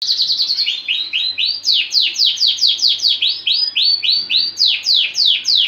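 Lancashire canary singing: a long run of repeated notes that each sweep downward in pitch, very quick at first, then steady at about four a second.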